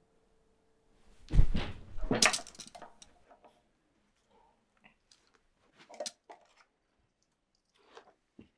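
A heavy thud on the floor, then a loud clattering crunch, followed by a few scattered small knocks and rattles: household things, among them a plastic basket, being knocked over onto carpet.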